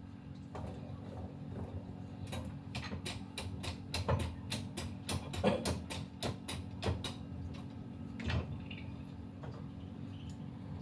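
A quick run of sharp clicks or taps, about three a second for several seconds, then a couple of single clicks, over a steady low hum: hand work with a tool on a motorcycle part.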